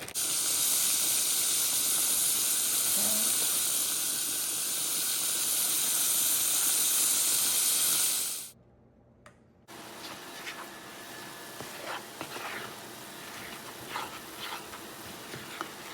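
Cube steak frying in hot oil: a loud, steady sizzle that cuts off suddenly about eight and a half seconds in. After a brief silence comes a quieter sizzle with scattered light clicks.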